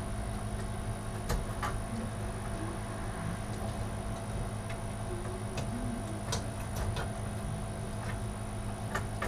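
Scattered light clicks and taps from computer parts and cable connectors being handled inside a PC case, over a steady low hum and a thin high whine.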